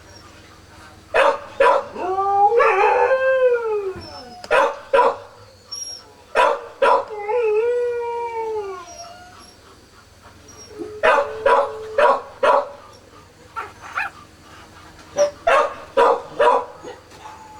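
Four-day-old Kishu Inu puppies crying: clusters of short, sharp squeals, and twice a longer wavering wail that falls in pitch.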